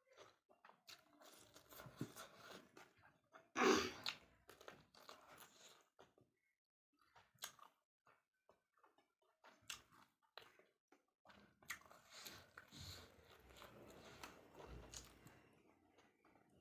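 Close-up mouth sounds of a person eating chicken karahi with rice: irregular chewing, crunching and wet mouth clicks, with a louder crunch about four seconds in and a short pause around six seconds in.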